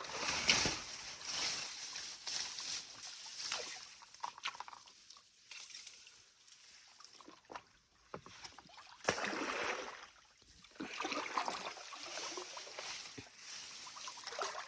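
Water splashing and sloshing around a stand-up paddleboard in irregular bursts, typical of paddle strokes, with a quieter stretch in the middle.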